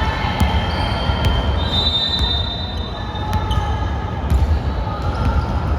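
A basketball bouncing on a hardwood gym court during play, as sharp thuds here and there, with short high squeaks of shoes on the floor over a steady low hall rumble.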